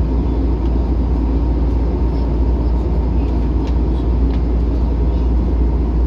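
Steady cabin noise inside an Airbus A321-200 airliner: a deep, even drone of engines and airflow with a faint thin steady tone above it.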